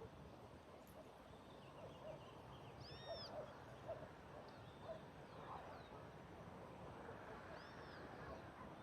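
Faint birdsong over a steady background hiss: a few short, arched high whistled notes, one about three seconds in and another near the end, with scattered chirps and short lower calls between them.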